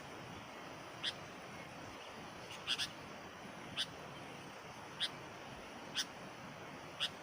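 Sooty-headed bulbul (kutilang) giving short, sharp call notes about once a second, some in quick pairs: the decoy bird calling to draw in wild bulbuls.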